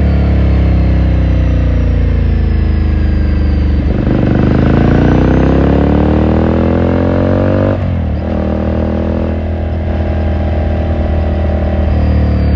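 2018 Ducati Scrambler Sixty2's air-cooled L-twin engine and exhaust on the move. Engine speed sinks for about four seconds, then climbs steadily under throttle, drops sharply about eight seconds in, and runs steady after that.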